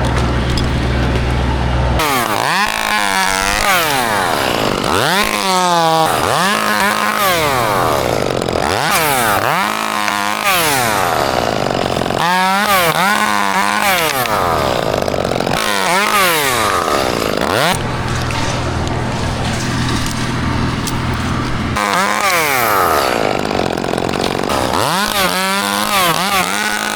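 Chainsaw engine idling briefly, then revving up and dropping back again and again, about once every one to two seconds, as it works through pine wood.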